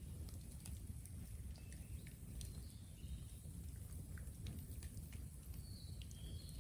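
Raw bamboo bonfire crackling with scattered small pops and ticks over a steady low rumble, with a few brief high chirps or whistles.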